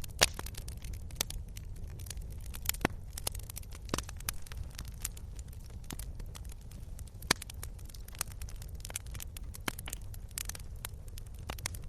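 Wood fire crackling: irregular sharp pops and snaps over a low, steady rumble, with a louder pop just after the start and another about seven seconds in.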